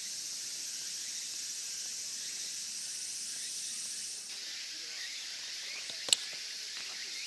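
Steady high-pitched chorus of insects, with one layer of it stopping a little after four seconds in. A single sharp click about six seconds in.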